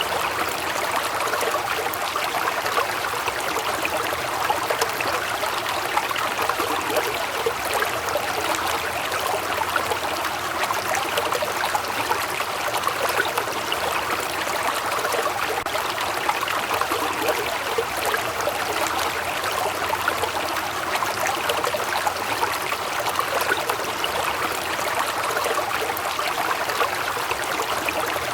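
Waterfall: water falling and running over rocks in a steady, even rush.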